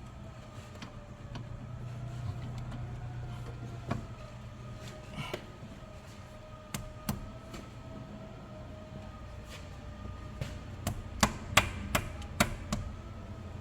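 Sharp metallic clicks and knocks of tools and parts being handled on the engine's timing end while the cam timing is checked, with a quick run of louder knocks near the end, over a steady low hum.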